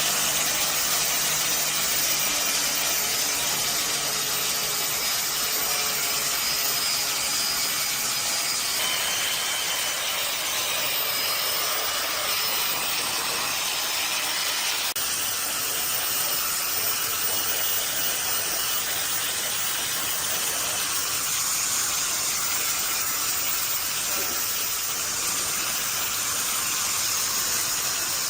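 Steady, loud hiss of a pressurised spray or air jet, running without a break.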